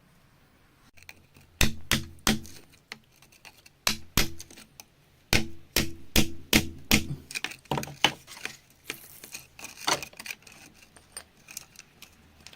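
Hard objects knocking and clinking together in an irregular run of sharp clicks, starting about a second in, some with a brief ring.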